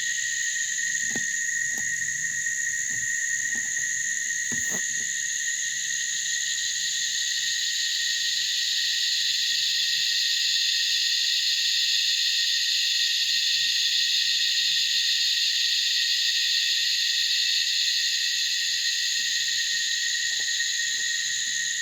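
Dense chorus of cicadas: a steady, high-pitched drone that swells a little louder after several seconds.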